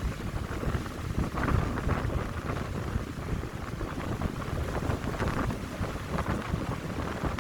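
Wind gusting through a pine grove, with low rumbling buffeting on the microphone and a rustling hiss that swells and fades with the gusts.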